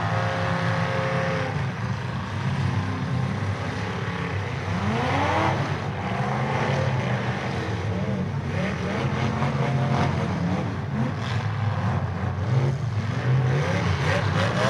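Several demolition derby cars' engines running and revving together, their pitch rising and falling, with occasional knocks as the cars hit one another.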